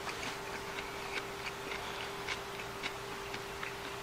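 Faint, irregular clicks of chewing a mouthful of stir-fried vegetables, over a steady faint hum.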